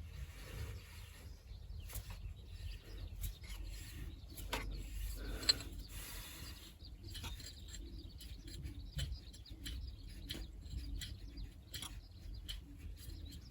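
Irregular metallic clicks and rattles of hand work on engine parts, with ratchet-like clicking and one sharper click about five and a half seconds in.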